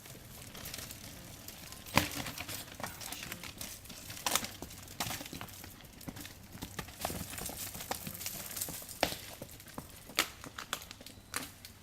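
Mountain bike working over a rocky, rooty uphill trail section: irregular clicks, knocks and clatter, with the sharpest knocks about two, four, nine and ten seconds in.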